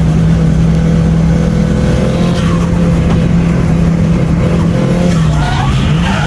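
Nissan Silvia S14's turbocharged SR20DET four-cylinder held at steady high revs in a drift, with tyres squealing; the revs climb just before the end.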